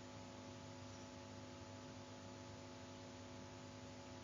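Near silence: a faint, steady electrical hum with hiss from the recording chain.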